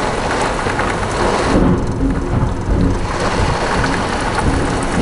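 Heavy thunderstorm rain pouring steadily, with a low rumble of thunder following a lightning flash.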